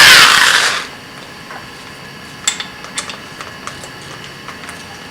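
Electric drill running down, its pitch falling as it stops within the first second after boring weld scale out of a steel bushing with a 7/32 inch bit. After that, a few light metallic clicks and clinks from handling the part and tools.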